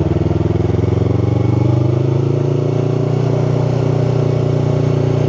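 A 2018 Yamaha R3's parallel-twin engine accelerating under throttle, heard from the rider's helmet mic: its pitch rises over the first two seconds, then holds steady.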